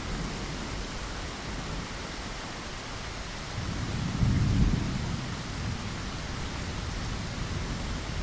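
Steady rain falling, with a low rumble of thunder that swells about three and a half seconds in, peaks about a second later and fades.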